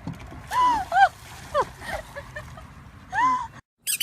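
An animal giving a series of short calls, each rising and falling in pitch, over steady background noise. The sound cuts off abruptly near the end.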